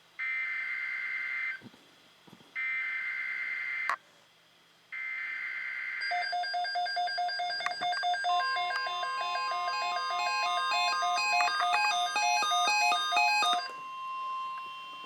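NOAA Weather Radio alert: three short bursts of screeching SAME header data tones, then a fast pattern of stepping beeps over the steady 1050 Hz warning alarm tone, which starts about eight seconds in. The beeps stop shortly before the end while the steady alarm tone continues, ahead of a tornado watch update.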